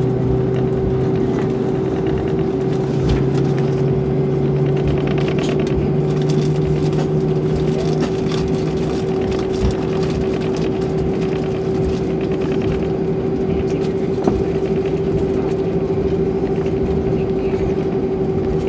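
Cabin noise of an Airbus A320-232 taxiing: its IAE V2500 engines run at a steady level with a constant hum and whine, and there are a couple of faint knocks from the ride.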